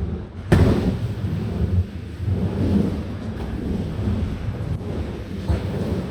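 Skateboard wheels rolling over a smooth skatepark surface, a steady low rumble, with a sharp board clack or landing about half a second in and another near the end.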